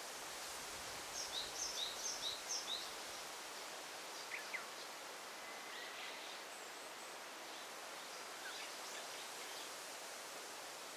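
Daytime forest ambience: a steady rustling hiss of leaves and air, with small birds calling over it. About a second in comes a quick run of about seven high two-note chirps, followed by scattered single calls.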